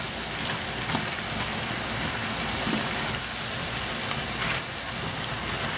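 Crab claws sizzling steadily in hot oil in a frying pan as they brown, with a plastic spatula now and then scraping and turning them.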